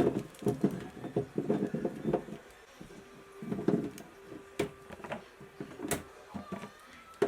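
Irregular clatter of kitchen items being handled: a string of small knocks and clicks with a few sharper clicks in between.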